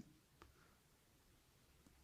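Near silence: faint room tone, with one faint click about half a second in.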